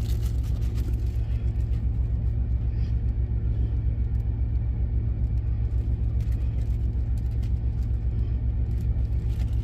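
Truck engine idling: a steady, low, pulsing rumble.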